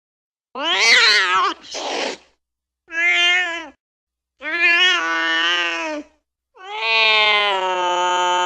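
Angry cat's drawn-out yowls: four separate calls. The first is followed by a short breathy hiss, and the last is long and steady, still going at the end.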